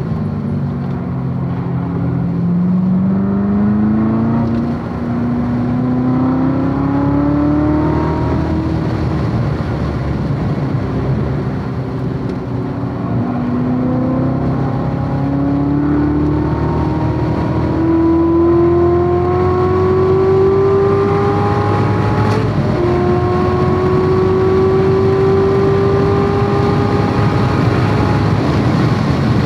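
Corvette C7 Z06's supercharged V8 pulling hard on track, its note climbing through the revs and dropping back at each upshift, the last shift a little over 22 seconds in after a short click. Heavy wind and tyre noise runs underneath.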